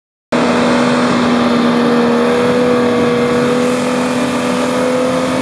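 Lifted Jeep Cherokee XJ's engine running loud at a steady, held pitch as the Jeep crawls up a rock ledge.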